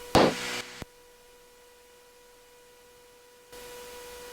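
Aircraft intercom audio feed: a brief clipped voice fragment and a sharp click within the first second, then near silence. A steady electrical hum with a faint steady tone comes in near the end.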